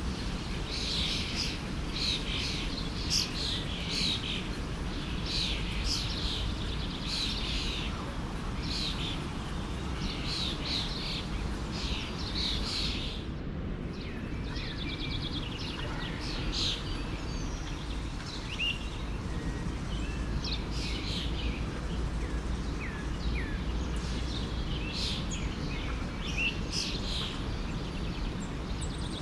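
Many small songbirds chirping and twittering in quick, overlapping calls over the steady rush of a flowing stream. The chirping thins out about halfway through while the water runs on unchanged.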